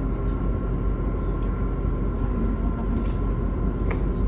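Interior noise of a MAZ-216 city bus under way: a steady low rumble of engine and road, with two faint steady high tones and a few small rattles.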